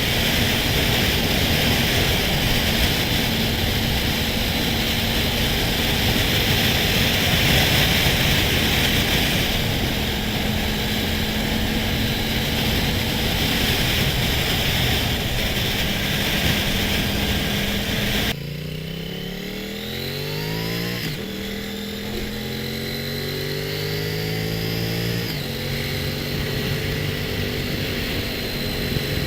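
Motorcycle riding at speed with heavy wind rush over a steady engine note. About two-thirds of the way in the wind noise suddenly drops. The engine is then heard accelerating, its pitch rising and falling back twice as it shifts up through the gears, before settling at a steady speed.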